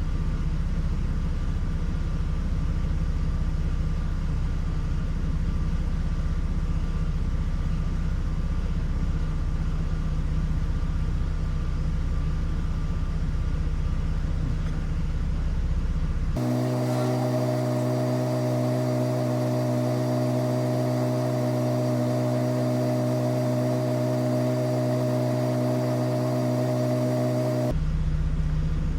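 Hummer H3's 3.5-litre five-cylinder engine idling cold with a steady rumble. About two-thirds of the way in the sound changes abruptly to a smoother steady hum of several held tones, then switches back shortly before the end.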